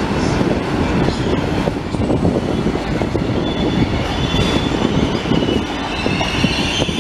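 ALe 642 electric multiple unit rolling slowly into the station, its wheels rumbling and rattling over the track, with a thin high wheel squeal setting in about halfway through.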